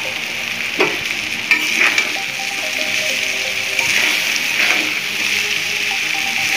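Boiled chowmein noodles sizzling in hot oil in a pan as they are stirred and tossed, with a steady sizzle and several short scrapes of the utensil against the pan.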